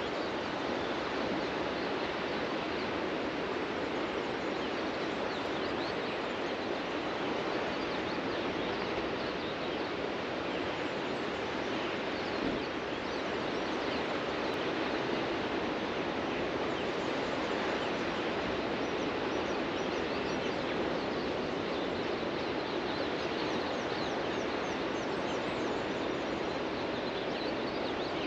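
Ocean surf washing onto a beach in a steady, continuous rush, with faint chirping bird calls now and then.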